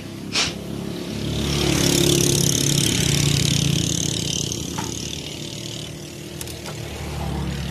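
A vehicle passing on the road: its engine and tyre noise swell, peak after a couple of seconds and fade away. A single sharp click sounds just before it.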